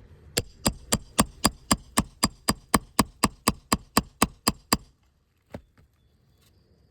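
Roofing hammer tapping in a quick even run of about eighteen sharp, slightly ringing blows, about four a second, then one more lighter tap after a short pause, as it works a roofing nail loose under the shingle.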